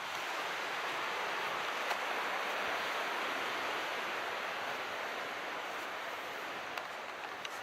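Calm sea surf washing in a steady hiss that swells over the first few seconds and then eases off. A few faint ticks come near the end.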